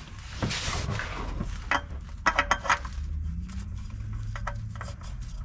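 Clicks and light metallic knocks of hands working a new oil filter onto its mount under the engine, with a quick cluster of sharp clicks about halfway through.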